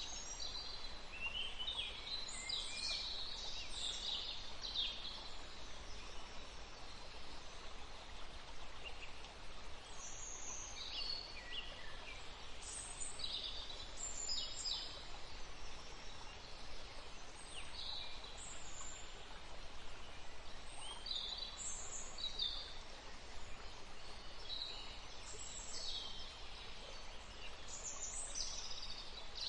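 Several songbirds singing, with short high chirps and trills coming irregularly over a steady faint background hiss.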